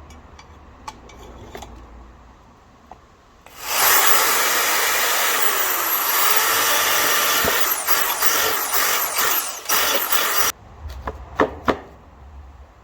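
Electric drill with a 5/16 bit boring into a catalytic converter's packed ceramic honeycomb, a loud rasping grind for about seven seconds that starts a few seconds in and stops suddenly; this is the cat being gutted for a straight-through exhaust. Clicks and rattles follow near the end.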